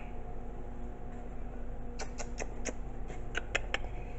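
A few light, sharp clicks, scattered and mostly in the second half, over a steady low hum.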